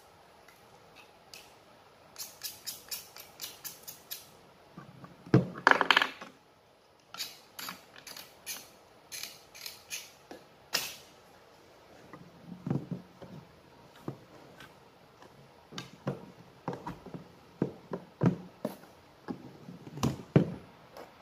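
Sharp plastic clicks and knocks from working PVC pipe and fittings with a hand tool. The clicks come about four a second in runs, with a louder rasping stretch about five seconds in and duller knocks in the second half.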